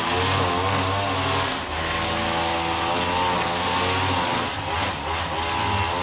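Petrol lawn mower engine running steadily, its pitch wavering slightly as the load changes while cutting grass.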